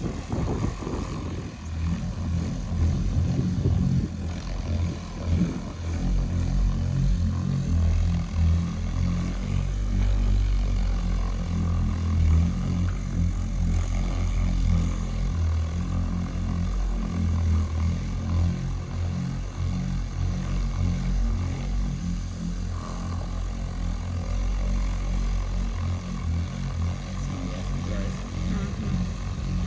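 Handheld car polishing buffer running with a low drone as it works compound into the paint under no more than its own weight.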